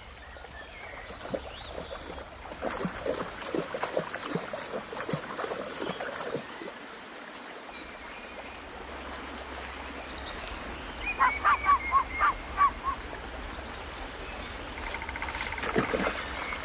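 An animal gives a quick run of about seven short honking calls about eleven seconds in, after a stretch of light rustling.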